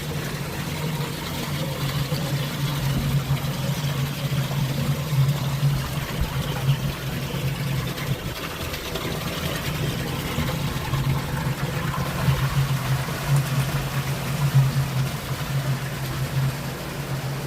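Steady low motor hum with running water and hiss over it.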